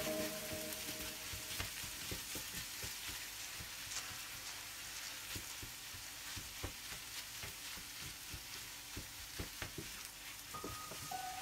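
Corned beef and onions sizzling in a frying pan while a wooden spatula stirs and breaks up the meat, with many short knocks of the spatula against the pan.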